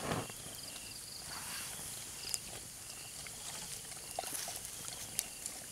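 Night insects calling in short, evenly repeated chirps, with a few sharp clicks and soft rushes of noise in between.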